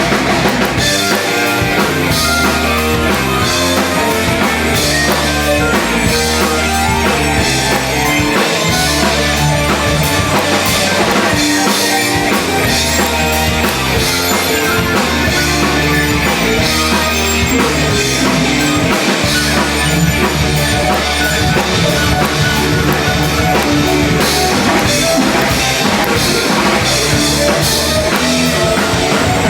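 Loud live rock band playing an instrumental passage without vocals: pounding drum kit, bass and electric guitar, steady and dense.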